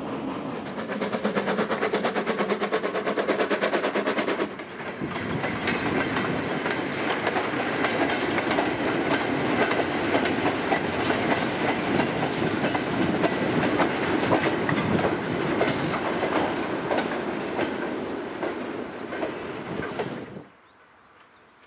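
Steam-hauled coal train of loose-coupled four-wheeled mineral wagons and a brake van rolling past, wheels clattering over the rail joints with a steady rumble. It opens with a fast, even pulsing for about four seconds, and the rattle cuts off suddenly near the end.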